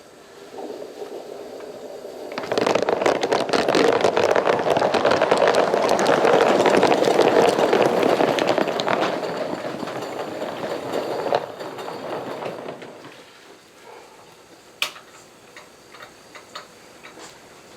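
Steam locomotive 4633 working: a rough, rapid steam exhaust builds up, runs loud for about nine seconds, then dies away, with a few faint clicks afterwards. Its valves are machined for little cut-off, which gives it a heavy exhaust.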